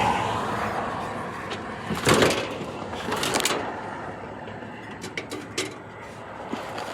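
A few short clanks and scrapes of metal, as of truck-deck ramps being shifted on their rails: a strong one about two seconds in, another a second later, and lighter clicks near five seconds. Wind on the microphone at first.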